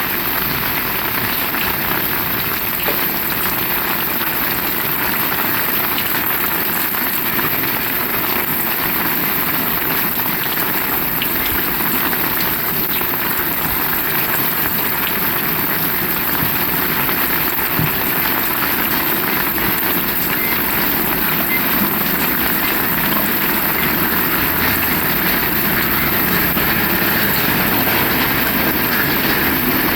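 Heavy rain falling steadily, an even hiss that swells a little louder near the end.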